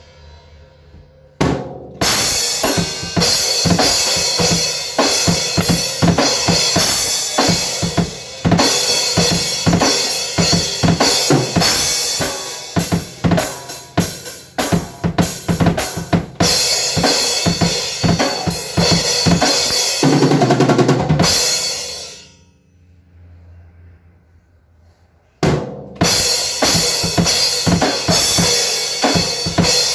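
Drum kit being played in dense, fast patterns of drum hits with a bright cymbal-like wash on top. It starts about a second and a half in, stops for about three seconds near the end, then picks up again.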